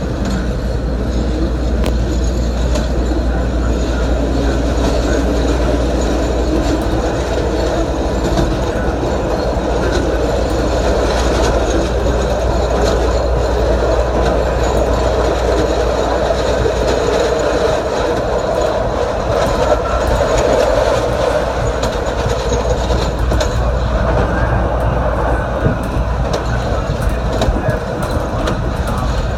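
CTA 'L' rapid-transit train running along elevated steel track: a steady rumble of wheels on rail heard from the front cab.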